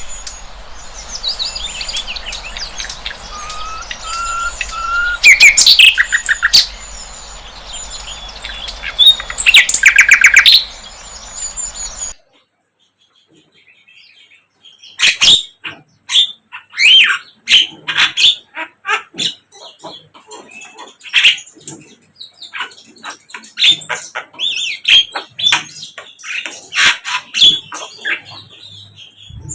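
Flycatcher (sikatan londo) singing: sharp high chirps, whistled notes and fast trills. About 12 seconds in, the sound cuts off abruptly, and a low hum under the first part stops with it. After a short silence comes a second stretch of rapid chirping.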